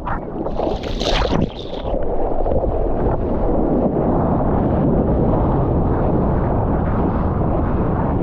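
Strong wind buffeting the microphone and water sloshing around it, with a short splash about a second in.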